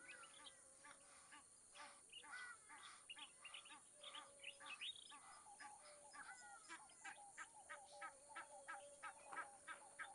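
Faint bird calls: many short chirps and whistled notes, several a second, some rising and some falling in pitch, over a steady high hiss.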